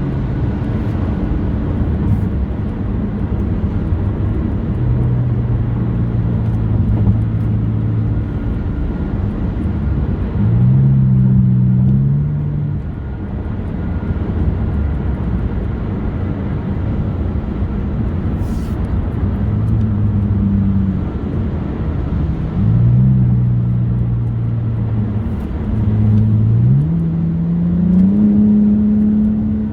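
Car engine accelerating in short pulls, its note climbing and then dropping back several times as it shifts, over steady road and wind noise from a moving car.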